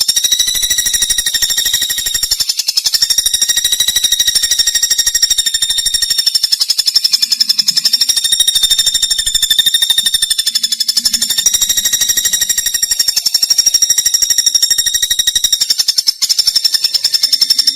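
A continuous, loud, high-pitched buzzing trill made of very fast pulses, its pitch wavering slightly, from a songbird-training (masteran) recording. It drops out for a moment about sixteen seconds in.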